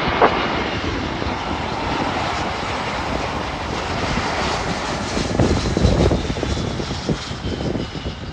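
Jet airliner flying past on its landing approach: steady engine roar with a faint whine that slowly drops in pitch as it goes by.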